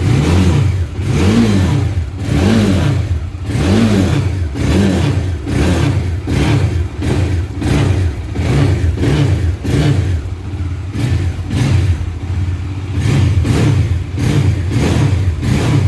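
Bajaj Dominar's single-cylinder engine revved on the stand in repeated short throttle blips, each rising and falling in pitch, over a steady idle; the blips come faster in the second half. No vibration buzz from the body panels is heard, which the owner puts down to having tightened the loose panel nuts.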